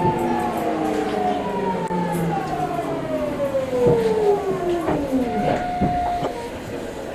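Hitachi GTO-VVVF inverter traction motors of a Seibu 6000 series train whining as the train brakes, several tones falling steadily in pitch, then a short steady tone about five seconds in as it slows toward a stop.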